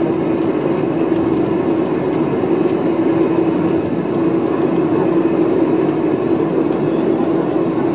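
Steady cabin noise of a Boeing 747-400 with its four turbofan engines running: an even rushing hum with a strong low drone.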